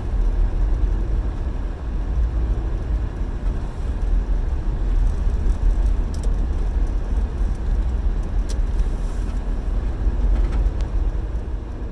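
Steady low rumble of a car's engine and tyres heard from inside the cabin while driving on an icy road, with a few faint ticks.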